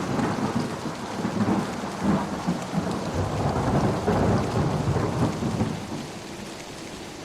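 A long roll of thunder rumbles over steady heavy rain, then dies away about six seconds in, leaving the rain alone.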